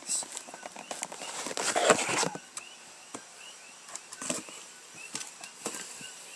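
Handling noise: scattered clicks and knocks, with a louder rustle about two seconds in. Faint high chirps repeat about twice a second in the background from the middle on.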